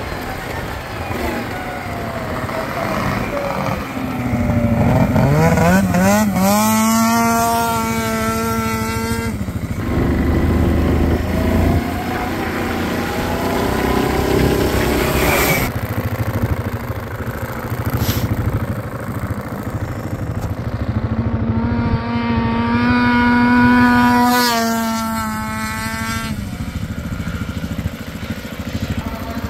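Ski-Doo Rotax 670 two-stroke engine in a 1989 Honda Pilot revving hard twice, about fifteen seconds apart. Each time the pitch climbs quickly, holds high for a couple of seconds, then drops away as the throttle closes, with lower engine running in between.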